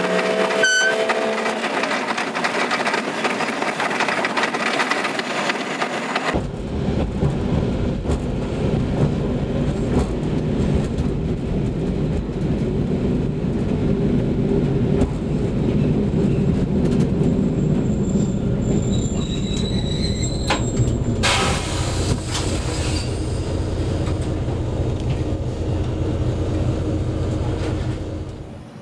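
Diesel railcar running along the track, heard from the cab, with a steady low engine drone and wheel noise. About six seconds in the sound changes abruptly, as from one recording to another.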